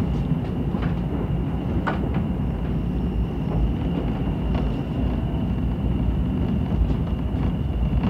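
Diesel train heard from outside, slowing to a stop, with a steady low engine rumble. A thin steady high-pitched tone runs above it, and a few sharp clicks come at scattered moments.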